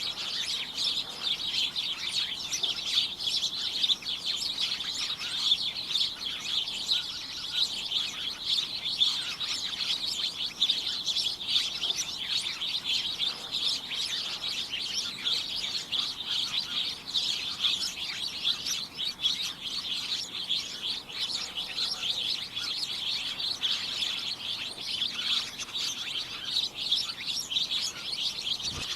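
A group of birds chirping all at once, a dense, unbroken chatter of many overlapping high chirps.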